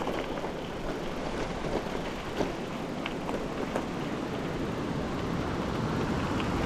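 Steady rushing noise of a bicycle on the move: wind on the microphone and tyre rumble, with scattered small clicks and rattles, growing a little louder near the end.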